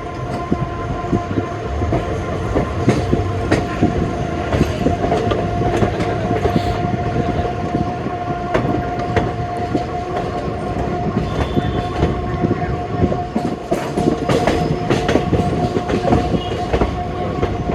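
Passenger train running on the track, heard on board: the wheels clatter over rail joints in a run of sharp clicks over a steady rumble, with a steady tone held throughout.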